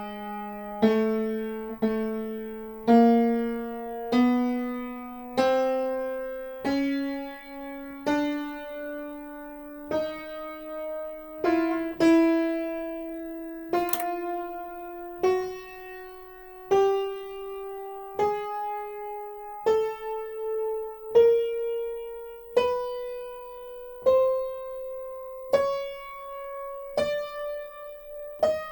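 An Aldrich spinet piano played one key at a time, each note struck and left to ring out, climbing step by step up the keyboard at about one note every second and a half. The keys are being checked by ear on a spinet the owner finds badly out of tune.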